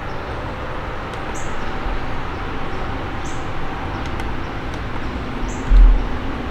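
Steady outdoor wash of road traffic with a low rumble. A few short, high bird chirps come about every two seconds, and a single loud low thump falls near the end.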